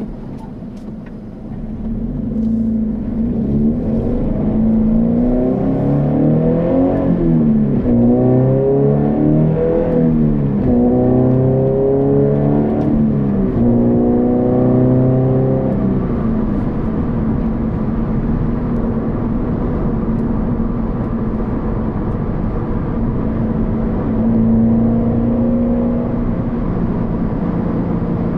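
The exhaust note of a Subaru BRZ / Scion FR-S / Toyota GT86 fitted with a Borla 11839 axle-back exhaust, heard from inside the cabin. The car accelerates: the note rises in pitch and drops back several times as it shifts up through the gears, then holds steady as it cruises. The engine is the car's 2.0-litre flat-four.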